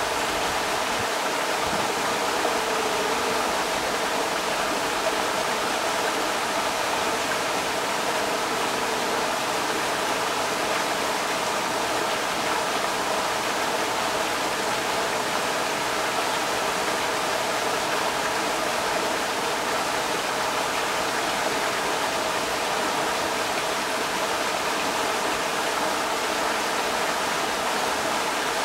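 Creek water rushing steadily over rocks, an even, constant wash of sound.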